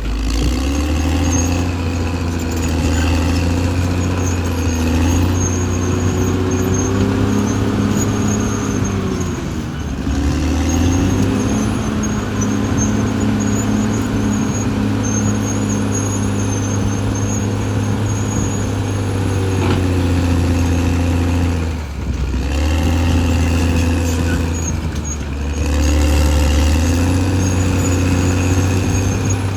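Caterpillar D6R XL bulldozer's diesel engine working under load, its pitch rising and falling as the machine pushes, with brief dips in engine sound about ten seconds and twenty-two seconds in.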